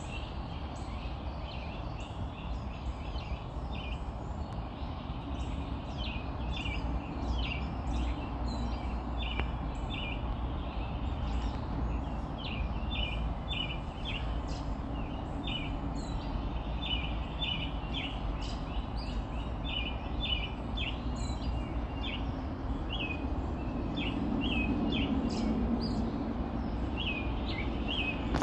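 Small birds chirping: many short, high chirps in quick runs, often several a second, over a steady low background noise.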